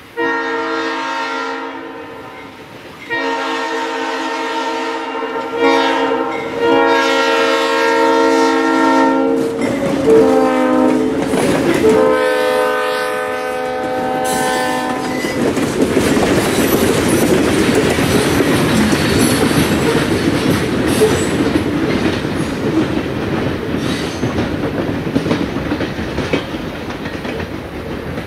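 Freight train's locomotive horn blowing five blasts, long ones with one short blast near the end, the grade-crossing warning signal. Then the train's tank cars rolling past with a steady rumble and clatter of wheels on the rails.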